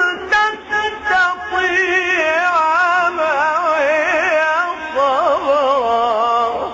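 A male Quran reciter chanting in the mujawwad style, holding a long melodic phrase with rapid, wide ornaments in pitch; it tails off at the end.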